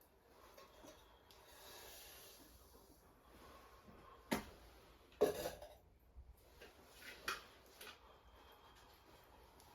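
Quiet handling noises: a soft rustle, then a few sharp knocks and clicks, the loudest about five seconds in.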